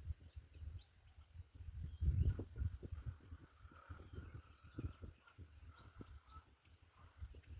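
Outdoor natural ambience: irregular low thuds and rumbles, loudest about two seconds in, over faint distant bird or insect chirping and a steady high whine.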